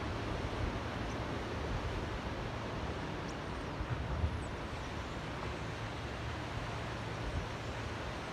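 Ocean waves lapping in a channel: a steady wash of water with a low rumble underneath, swelling briefly about four seconds in.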